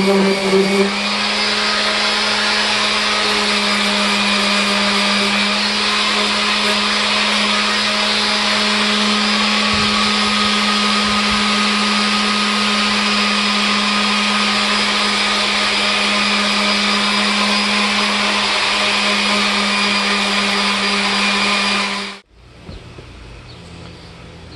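Electric power tool motor running steadily, a constant hum under a broad hiss, which cuts off suddenly near the end.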